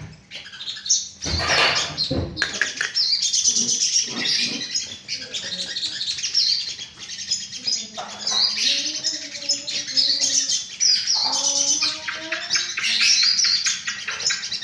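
Sogon songbird singing a rapid, continuous run of high chirps and trills: a lure song used to set off a pet sogon singing. Lower wavering notes join in about eight seconds in, and there are a couple of dull knocks near the start.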